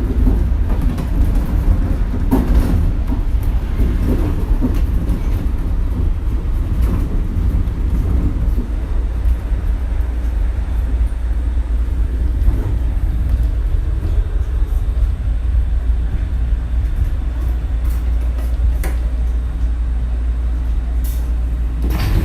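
Shonan Monorail suspended monorail car running between stations, heard from inside the car: a loud, steady low rumble from its rubber-tyred bogies, with a few faint clicks in the second half.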